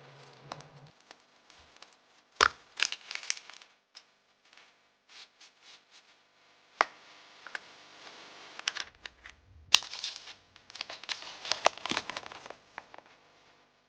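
Foil wrapper of a Kinder Surprise egg being torn and crinkled, in irregular bursts of crackling, with two sharp cracks, one about two and a half seconds in and one near ten seconds in.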